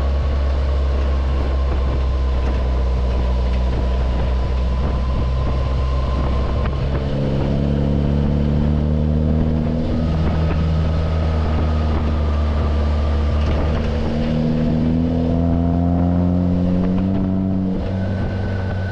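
Jeep Wrangler with an aftermarket intake and exhaust driving along; the engine note climbs in pitch as it accelerates, once about seven seconds in and again from about fourteen seconds, over a steady low drone.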